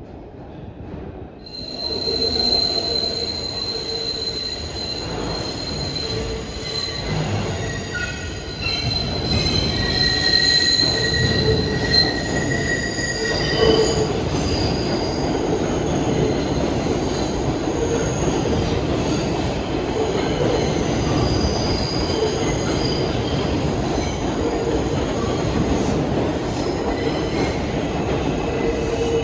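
An R142 subway train running through the station, its steel wheels squealing in several high, steady tones while the cars rumble. The sound comes up loudly about a second and a half in; the squeal fades out about halfway through while the rumble carries on.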